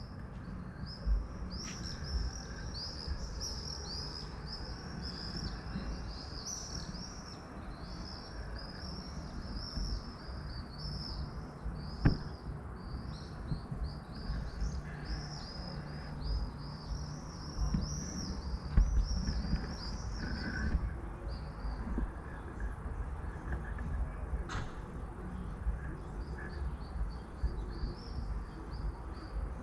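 Songbirds chirping in a rapid, unbroken run of short high notes for about twenty seconds. The chirps fade off, then come back fainter near the end, over a steady low rumble with a couple of sharp knocks.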